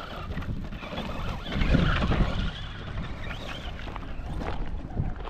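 Radio-controlled car driving, its motor whining up and down in pitch as it speeds up and slows, over a steady low rumble of wind on the microphone.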